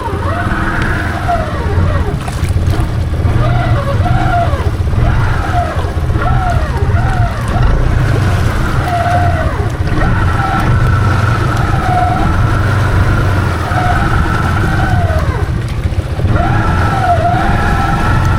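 Can-Am Outlander 700 XMR ATV engine revved up and down again and again, its tyres spinning and churning in deep, soft mud: the machine is stuck and the wheels are not finding grip.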